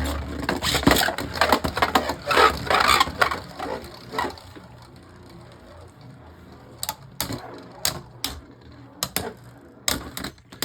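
Beyblade Burst spinning tops, Harmony Pegasus against White Ace Dragon, clattering in a plastic stadium. A dense run of clicking over the first few seconds gives way to scattered sharp clicks as they knock together.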